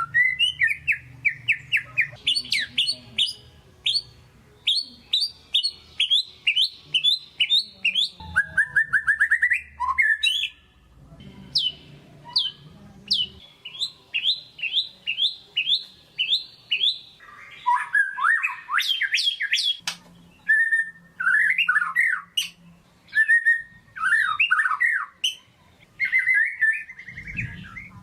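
White-rumped shama (murai batu) singing a full, excited song. It runs phrase after phrase: quick series of repeated sharp notes, fast trills and clear whistles, with short pauses between them.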